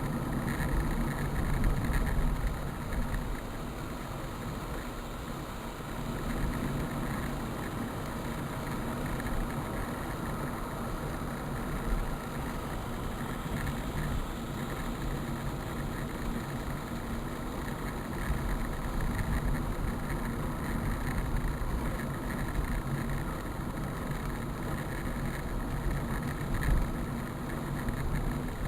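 Steady vehicle engine noise, like a motor running at idle, with a continuous wash of sound over it.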